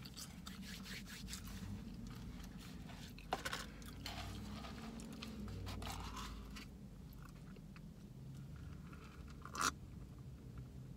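Close-up chewing of food, with soft crunches and wet mouth clicks, then a sharp click near the end.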